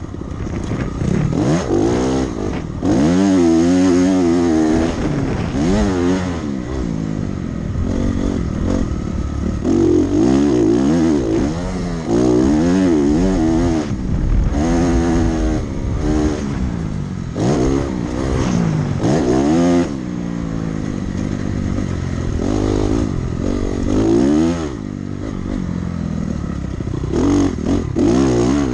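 Dirt bike engine revving hard and falling off again and again as the rider works the throttle through a lap, its pitch sweeping up and dropping sharply many times.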